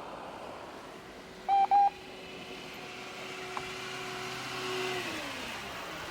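Vehicle driving on a snowy road with steady road and engine noise. Two short, loud, high beeps come about a second and a half in, and a steady hum falls in pitch about five seconds in.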